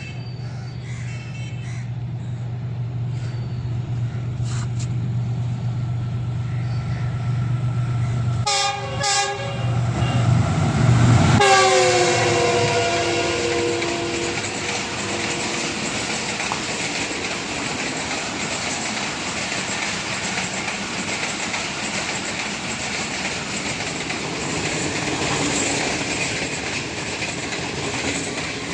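Pakistan Railways passenger train passing. The locomotive drones as it approaches and gives two short horn blasts about nine seconds in. A long horn blast follows, falling in pitch as the locomotive goes by, and then the carriages rumble past steadily.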